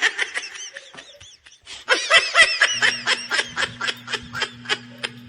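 High-pitched laughter, a rapid run of giggling pulses that rise and fall in pitch. A steady low hum comes in about three seconds in.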